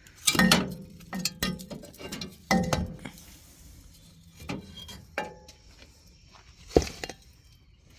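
Metal tools and loose metal parts clinking and knocking while the old exhaust manifold is unbolted from a Ford 4500 diesel backhoe engine. There are half a dozen separate strikes, some with a short metallic ring, and the sharpest comes a little before the end.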